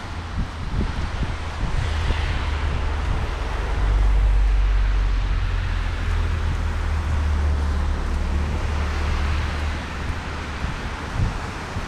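Heavy rain pouring steadily, with a long low rumble of thunder that swells about four seconds in and rolls on for several seconds before easing.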